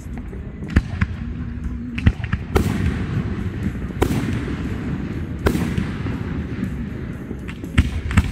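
Fireworks going off in a display: a run of sharp bangs at uneven intervals, the three loudest about two and a half, four and five and a half seconds in, over a steady low rumble.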